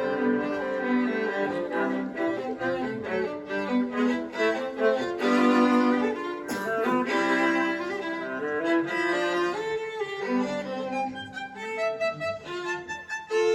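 Two violas playing a duet, bowing quick successions of notes in two interwoven parts.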